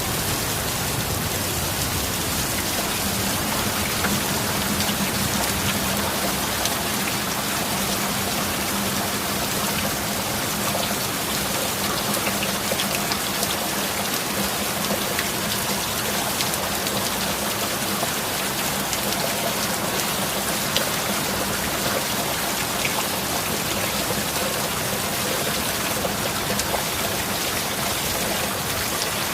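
Steady heavy rain falling, a dense even hiss with fine drop patter and no thunder.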